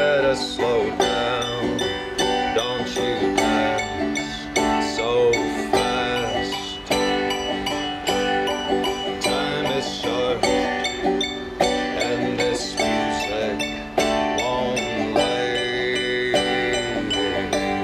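Acoustic banjo and small piano playing together in a slow song arrangement, the banjo picked in a steady run of plucked notes.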